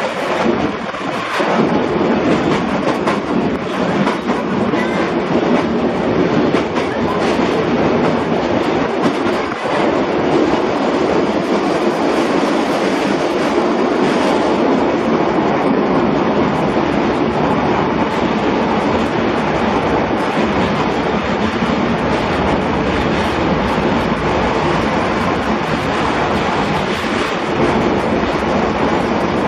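Steady running noise of a train, heard from inside an open-sided trolley car in a long tunnel: a loud, even rumble of wheels on rail that holds level throughout.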